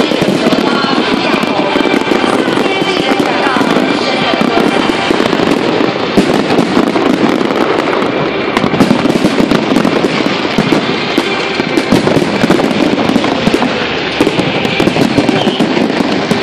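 Fireworks display going off continuously: a dense, unbroken stream of bangs and crackling.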